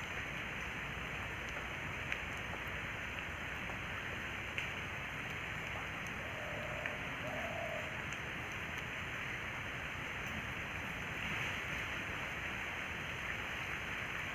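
Steady outdoor rushing noise, the kind made by moving water or wind, with a few faint clicks and two short faint tones a little past the middle.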